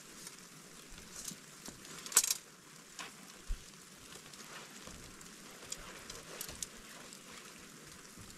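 Steady light hiss of falling rain and wet snow, with scattered sharp ticks and clicks and a louder cluster of clicks about two seconds in.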